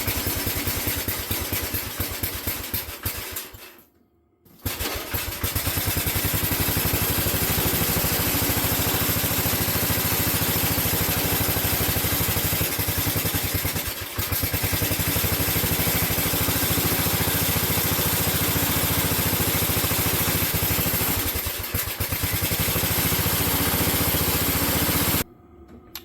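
A single-cylinder 8 hp Briggs & Stratton engine on a garden tractor running steadily after a first-pull start, having not run in years. It drops out to silence for about a second around four seconds in, then runs on with brief dips. It will only keep running with the choke on, which the owner takes for a blockage in the carburetor's fuel flow.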